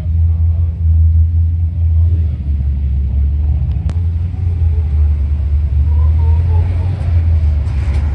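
Car engine and exhaust with a steady low rumble, idling or moving slowly close by. A single sharp click comes about four seconds in.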